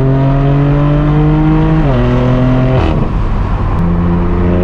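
Straight-piped exhaust of a BMW M4 F82's twin-turbo inline-six, pulling through the gears: the pitch climbs slowly, steps down at a shift just under two seconds in, breaks up into rough noise about a second later, then comes back and climbs again near the end.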